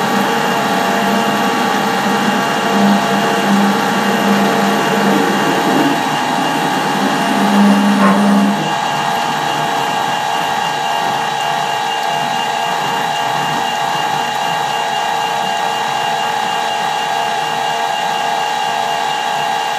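Metal lathe running with a steady whine of motor and gears. For the first eight seconds or so a lower, pulsing hum comes from the tool cutting a thread relief groove in the steel, and it stops about eight and a half seconds in while the lathe keeps running.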